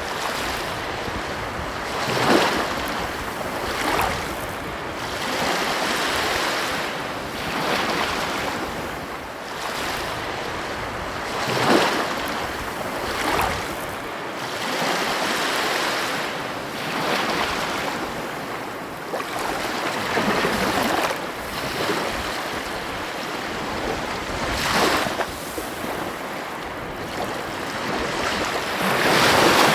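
Ocean surf washing onto a beach: a continuous rush of breaking waves that swells and falls back every couple of seconds, with a few sharper, louder crashes along the way.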